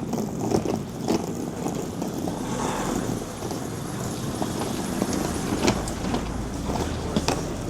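City street ambience: a low rumble of passing traffic under a general outdoor hubbub, with a few sharp clicks and knocks scattered through it.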